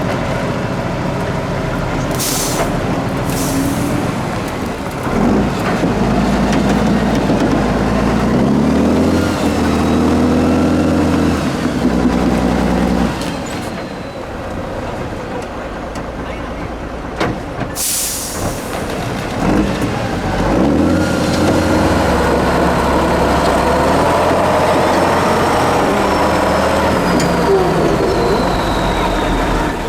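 Heavy off-road trial truck's diesel engine working and revving over an obstacle, its pitch climbing and falling as the throttle is worked, with a few short air hisses of the air brakes, the longest about two thirds of the way in.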